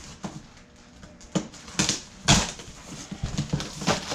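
Packing material being pulled from an engine's shipping box: bubble wrap and styrofoam rustling and scraping in a run of short, separate crackles, the loudest a little over two seconds in.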